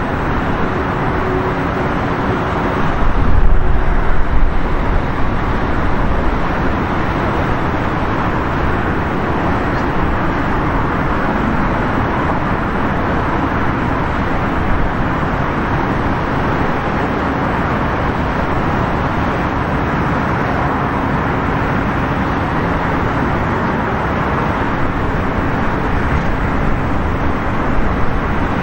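Jet airliner engine noise at an airport runway: a loud, steady roar that swells about three seconds in, then holds level.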